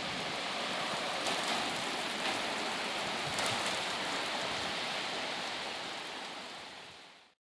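Steady rain falling, fading out near the end.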